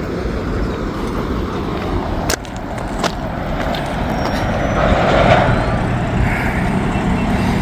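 Long freight train rolling past: a steady rumble of steel wheels on the rail, with two sharp clicks about two and three seconds in.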